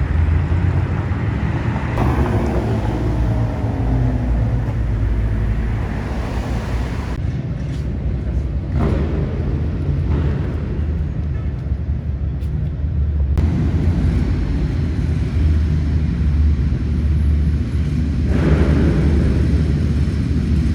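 Car engines and street traffic in a series of short clips that cut abruptly from one to the next, with a steady low engine rumble throughout. Around two to four seconds in, an engine's pitch glides up and down as a car passes or revs.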